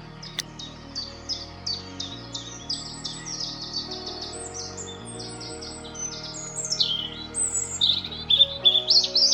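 A songbird singing: a fast series of repeated high notes, then a falling phrase and louder varied notes near the end. Soft background music with sustained tones plays underneath.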